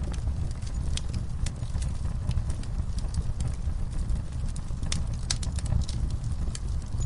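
Wood fire burning in an outdoor fire pit: a steady low rumble of the flames with scattered sharp crackles and pops from the burning logs, a few louder pops between about five and six seconds in.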